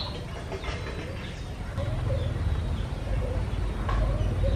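Birds calling: short, repeated, wavering low calls with faint high chirps. A low rumble sets in about two seconds in.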